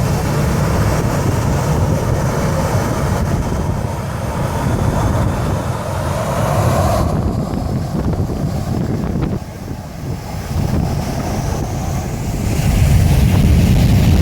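Boeing 737 jet blast: engines running at high thrust with a strong blast of wind buffeting the microphone, a heavy low rumble throughout that dips briefly and swells again near the end.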